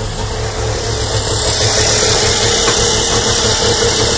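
Syrena 105L's three-cylinder two-stroke engine idling steadily with its bonnet open, getting a little louder about a second in.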